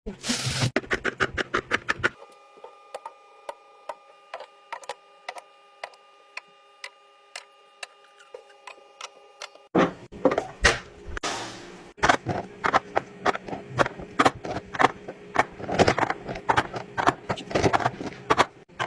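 Quick clicks, taps and knocks of food containers, lids and jars being handled and set down while a fridge is organized. A faint steady chord of tones sits under sparser taps for several seconds, and the handling gets busier and heavier about ten seconds in.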